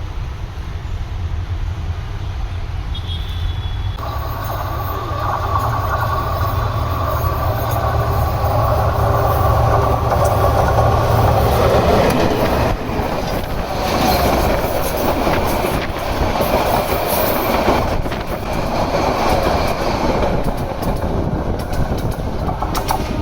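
A train running past on the rails: a steady low rumble of wheels and cars that grows louder and fuller about four seconds in.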